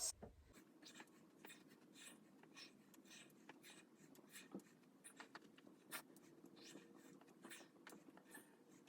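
Near silence with faint, irregular soft taps and rustles of a person exercising on the floor, over a low steady room hum.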